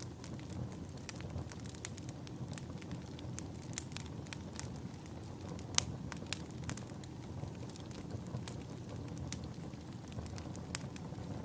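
Wood fire crackling in a fireplace: a steady low rumble of burning with irregular sharp pops and snaps, the loudest pop about six seconds in.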